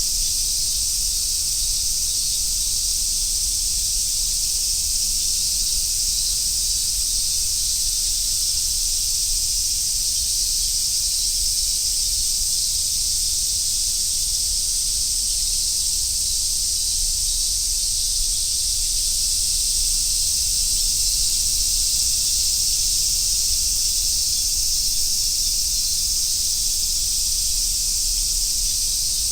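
Chorus of summer cicadas, a dense, steady high-pitched drone that never lets up.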